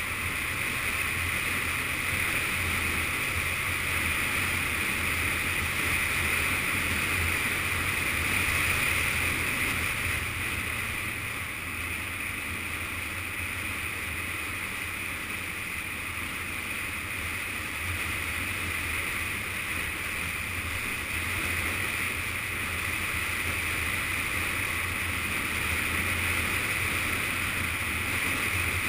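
Yamaha FZS600 Fazer's inline-four engine running steadily while riding, mixed with a constant rush of wind, the level easing slightly about a third of the way in.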